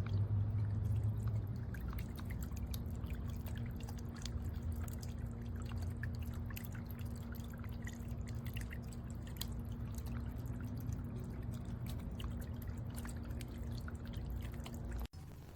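Water dripping, small scattered drips over a steady low hum.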